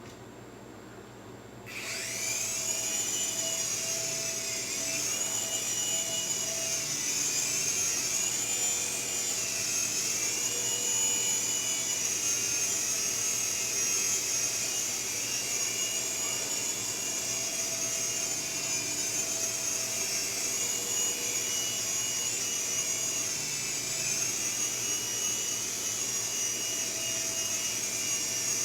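Syma S5 toy RC helicopter's small electric motors and rotors whining in flight. The whine starts about two seconds in, then holds, its pitch rising and dipping as it flies.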